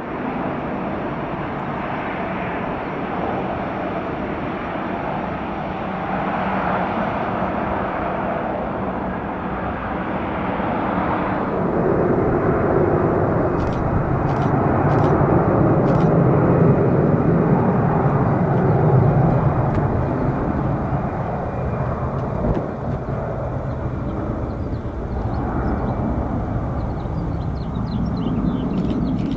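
Jet airliner engine noise, a continuous rush that swells to its loudest in the middle and then eases off.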